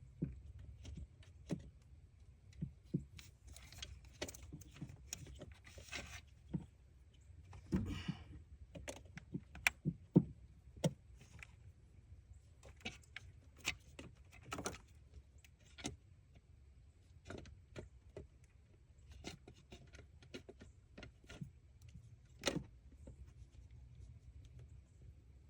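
Irregular light clicks, clinks and knocks of metal tools and small parts being handled, with a short rattle about a third of the way in and a low steady hum underneath.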